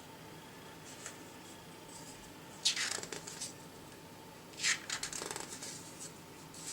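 Two short bursts of paper rustling, about three seconds and five seconds in, over a faint steady hum.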